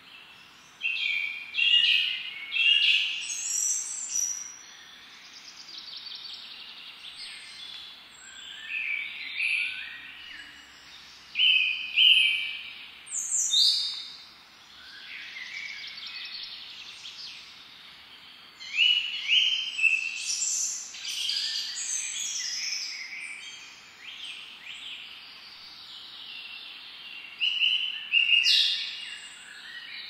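Woodland birds singing and calling: bursts of high chirps and trilling phrases, several of them over a steady faint hiss, with short lulls between the bursts.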